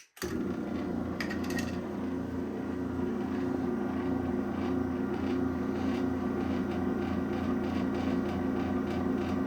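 Garage door opener motor running steadily, triggered by its remote, with a few light clicks about a second in.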